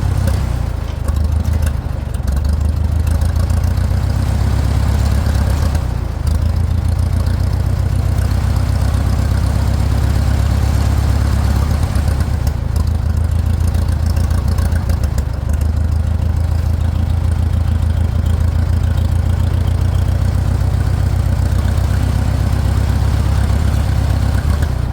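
Farmall 400 tractor's four-cylinder engine running steadily as the tractor is driven, a low chugging note with brief dips about two and six seconds in.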